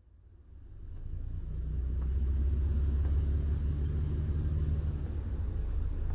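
A low, steady rumble that fades in over the first two seconds, with a faint hiss above it.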